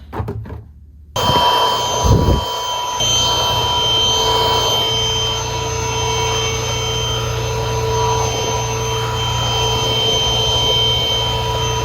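An electric fan-motor appliance, running steadily during kitchen cleanup: a rushing noise with a steady high whine. It cuts in abruptly about a second in, with a low bump about two seconds in.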